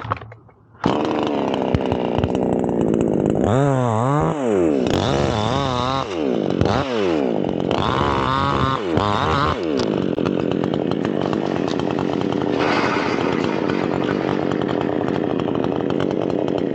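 Chainsaw cutting into a teak tree. It comes up to full speed about a second in, its pitch sags and recovers several times as the chain bites into the wood, then it runs steadily at high speed before dropping off at the end.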